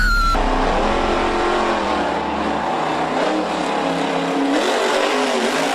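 Monster truck engine revving up and down over a steady noise.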